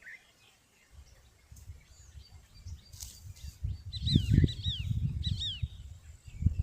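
Small birds chirping in short, high, downward-sweeping notes, bunched together about four to five and a half seconds in, over an uneven low rumble.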